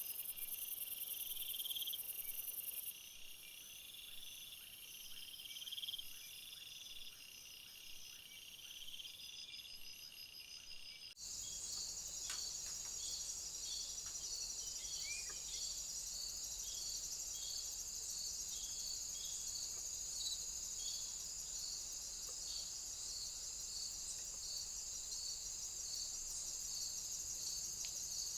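Crickets and other insects chirping in a steady, rhythmic chorus of high pulses. The sound changes abruptly about eleven seconds in, to a denser high chirping.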